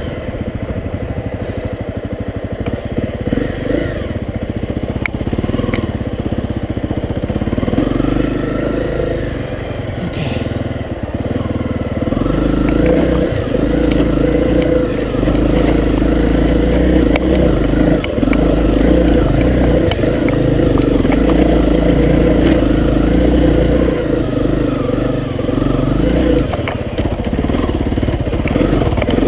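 Honda CRF250L dirt bike's single-cylinder four-stroke engine running as it rides along a trail, with scattered knocks. It steadies and grows louder about twelve seconds in.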